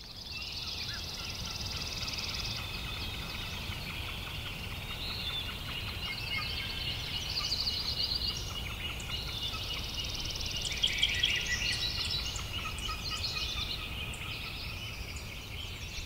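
Outdoor birdsong: several birds chirping and calling over one another, with a louder cluster of calls about eleven seconds in, over a steady low rumble.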